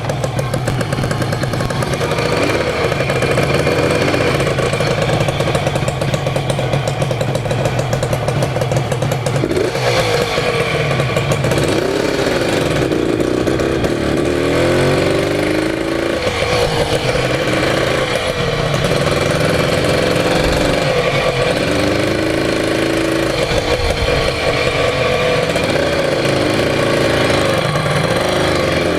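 Air-cooled Yamaha TZR250 1KT two-stroke twin, fitted in a YSR, running on its first test run. It holds a steady note for about the first ten seconds, then revs rise and fall again and again.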